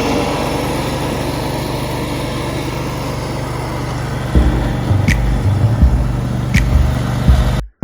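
Tractor engine running steadily. About halfway through, electronic music with a bass line and beat comes in over it, and the sound cuts out briefly near the end.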